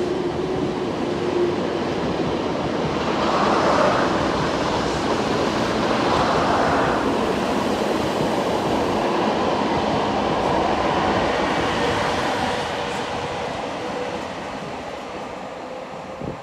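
Transilien line N train of VB2N double-deck coaches with a BB 27300 electric locomotive passing close below, crossing another double-deck train: a continuous rumble and rattle of wheels on rail, loudest a few seconds in. A faint steady hum runs under the second half, and the noise fades over the last few seconds as the train draws away, with a short knock near the end.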